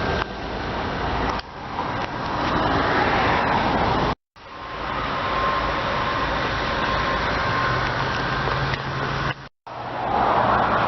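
2002 Nissan Pathfinder's 3.5-litre V6 idling steadily, heard from outside the vehicle, with the sound cut off briefly twice.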